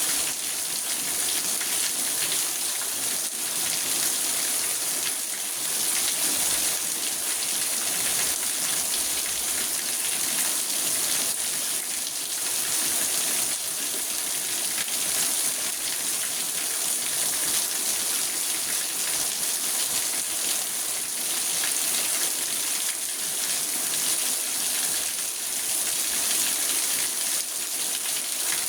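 Steady heavy rain drumming on a car's roof and windows, heard from inside the car as a dense, even patter that swells a little now and then.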